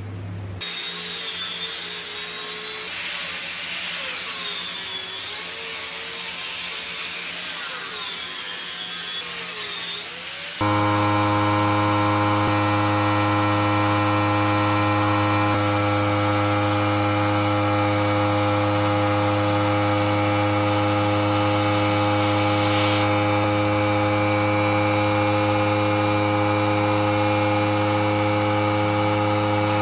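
Power tools working wood. First comes a tool whose pitch rises and falls as it is worked. About ten seconds in it cuts abruptly to a steady, even-pitched motor hum that holds unchanged.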